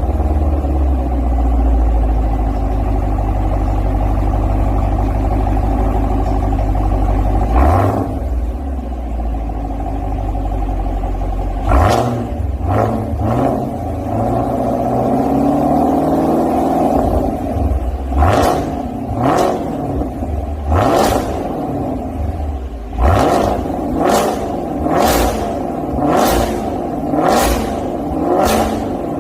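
Chevrolet Camaro engine through a Maintec aftermarket variable (valved) exhaust, running at a steady idle, then revved repeatedly in short blips from about twelve seconds in, each rising and falling back, about ten revs in all.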